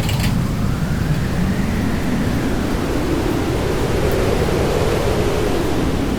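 Hurricane-force wind blowing hard and steadily and buffeting the microphone, with a faint whistling tone that rises and falls as gusts come through.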